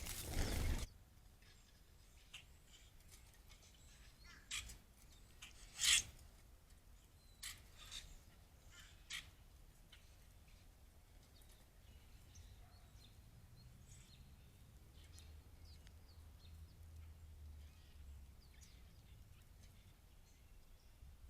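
Backyard birds calling: a handful of short, harsh calls between about four and nine seconds in, then faint scattered chirps. A brief burst of rustling noise opens it.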